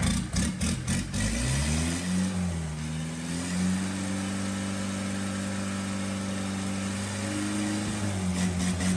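Rebuilt Kia truck diesel engine revving up: its pitch climbs over a second or two and then holds at a raised speed, rising a little more near the end. A few sharp clicks sound in the first second.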